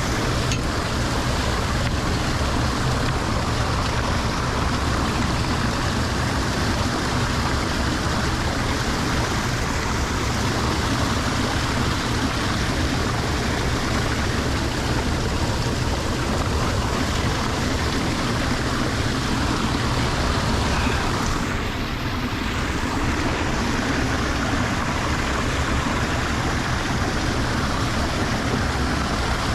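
Water rushing steadily into a lake drain, a constant even rush with a slight dip about two-thirds of the way through.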